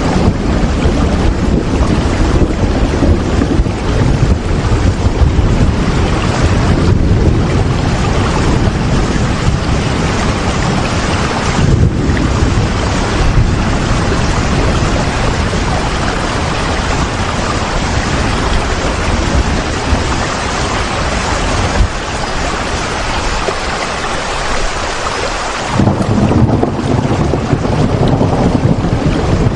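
Steady heavy rain with a deep rumbling low end. The rumble eases for a few seconds about twenty seconds in, then comes back suddenly near the end.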